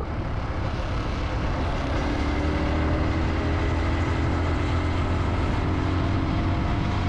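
Motorcycle riding at speed: a steady engine drone under heavy wind rumble on the microphone.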